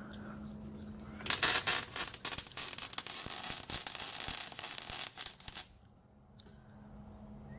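A welding arc crackles for about four seconds starting just over a second in, then stops, as an exhaust hanger is welded onto a straight pipe under a truck. A steady low hum runs before and after the welding.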